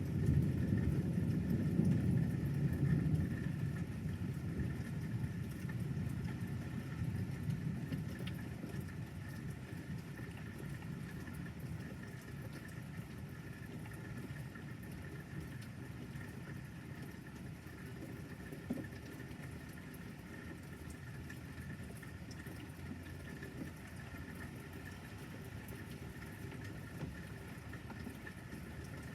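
Thunder rumbling, loudest at the start and fading away over about ten seconds into a steady low background rumble.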